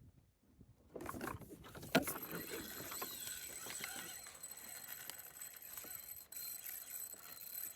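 Fishing reel being cranked steadily with a fish on the line, starting about a second in, with a sharp click shortly after.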